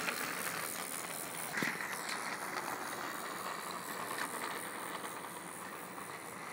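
Battery-powered Trackmaster 2 toy train engine running steadily on plastic track: a small motor whirring through its gears, with a few faint clicks that the owner can't explain. He wonders whether the activation tab sits too close to the gear.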